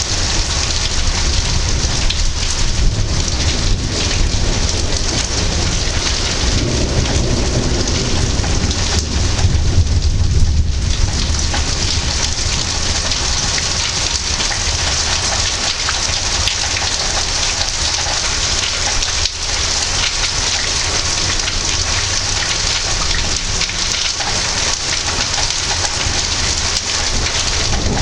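Thunderstorm: rain falling steadily, with a low rumble of thunder that swells and is strongest about ten seconds in.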